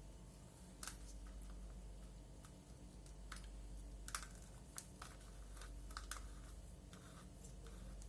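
Irregular light clicks and taps, about a dozen spread over several seconds, from small tools and objects being handled on a work surface, over a faint steady hum.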